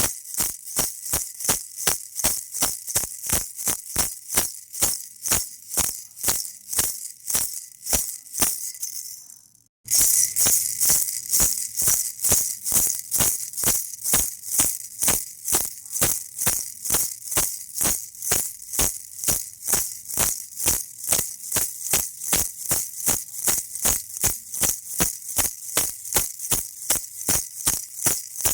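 Baby rattle shaken in a steady rhythm, about three shakes a second, a bright beady rattle. It fades out briefly about nine seconds in and starts again suddenly a second later.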